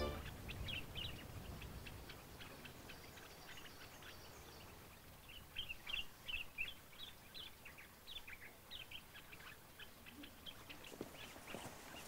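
Small birds chirping faintly: a scatter of short, high chirps that grows busier about halfway through, with a few soft knocks near the end.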